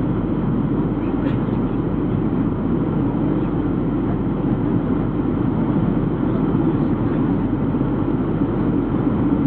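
Steady cabin noise of a Boeing 737-400 in flight: an even, low rush of engines and airflow with no change in pitch or level.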